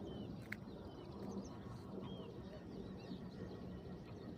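Birds chirping: many short high calls scattered throughout, over a steady low background noise, with one sharp click about half a second in.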